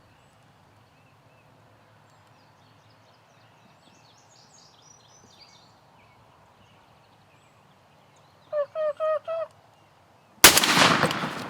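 Four quick turkey yelps, then a single very loud shotgun blast near the end that rings off slowly; faint songbirds are calling before them.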